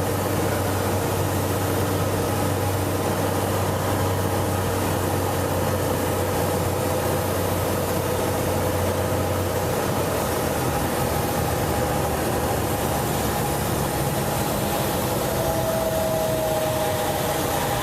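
Cessna 182's piston engine and propeller running in flight, a steady drone heard inside the cabin. The low hum shifts about halfway through.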